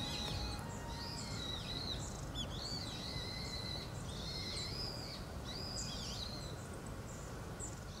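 Birds calling: a run of high, wavering chirps and whistles, roughly one each second, over a steady background rumble of outdoor ambient noise.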